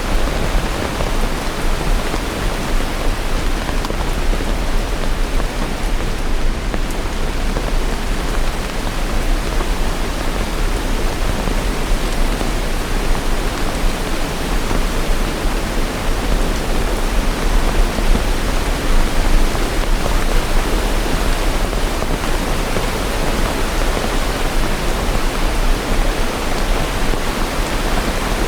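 Steady rain: an even, continuous hiss with no separate drops or thunder standing out.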